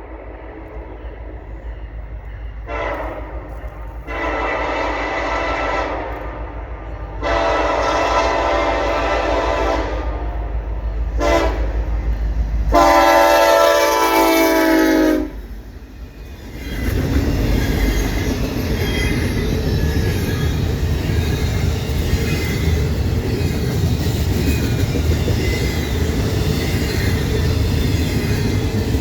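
Horn of an EMD SD70ACe locomotive leading a freight train, blown in the long-long-short-long grade-crossing signal as it approaches, with the final blast held longest. About a second after the horn stops, the locomotive and then the intermodal cars roll past with a loud steady rumble and wheel clatter on the rails.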